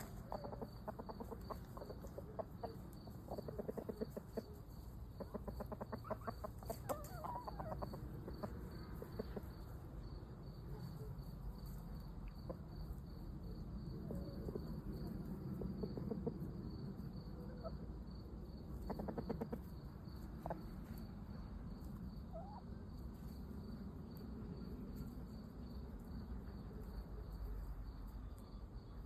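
Chickens clucking in short bouts, with a cricket chirping steadily at about three chirps a second.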